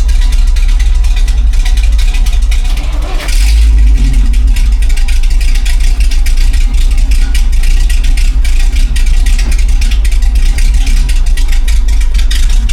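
Chevrolet 427 big-block V8 in a C70 truck running through homemade 'hillbilly' mufflers, a loud, steady, deep exhaust rumble. It dips briefly about three seconds in, then carries on a little fuller.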